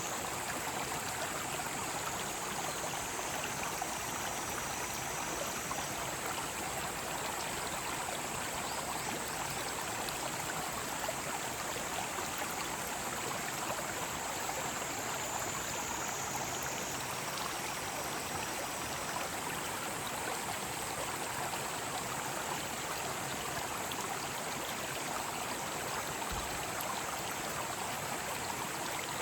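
Mountain stream flowing in an even, unbroken rush, with a high steady drone of cicadas singing above it that shifts in pitch about halfway through.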